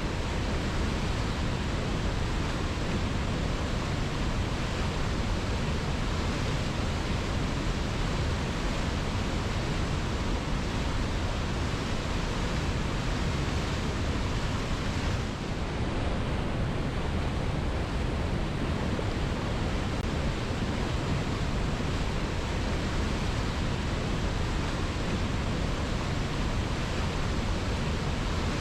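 Waterfall: a steady, dense rush of falling water with no breaks, heavy in the low end, dipping briefly in level about halfway through.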